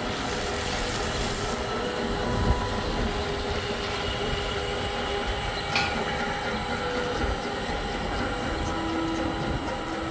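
Quilt and blanket washing machine running: a steady mechanical rumble with faint whining tones, and a sharp knock about two and a half seconds in and again near six seconds.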